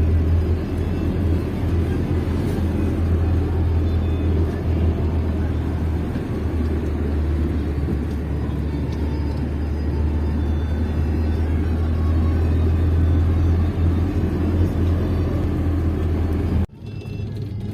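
Steady low rumble of a motor vehicle running, cutting off suddenly near the end.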